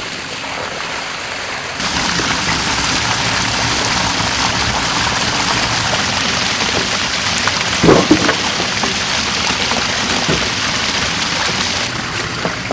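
Ginger sticks frying in sesame oil, a steady sizzle that gets louder about two seconds in. A brief knock comes about eight seconds in.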